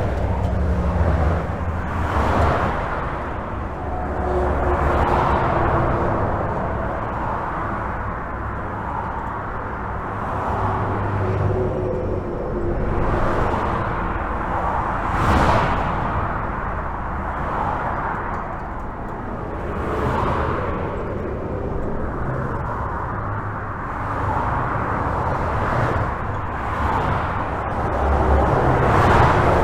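Steady highway traffic heard from under a bridge: a continuous wash of tyre noise and engine rumble, with individual vehicles swelling past every few seconds and one sharper pass about halfway through.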